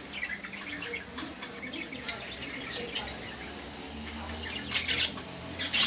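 Small cage birds chirping in short, scattered calls, with a few sharp clicks or flutters, the loudest about five seconds in and at the end, over a low steady hum.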